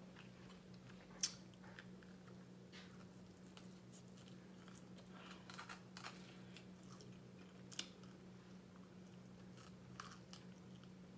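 Quiet eating sounds from a fried pork chop being bitten and chewed, with a few sharp crunchy clicks, the loudest about a second in and others near eight and ten seconds. A low steady hum runs underneath.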